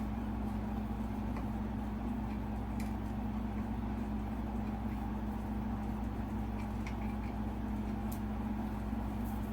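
A steady low mechanical hum, with a few faint small clicks.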